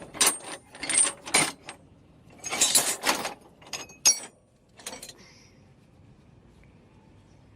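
A quick run of sharp metallic clicks and clatters over about five seconds, some with a brief high ring, like small metal parts knocking together.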